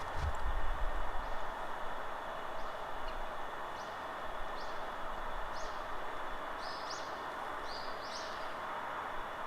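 Steady rushing wind in a forest with short, high bird chirps that come more often in the second half, some in quick pairs. A low rumble of wind on the microphone sounds in the first second or so.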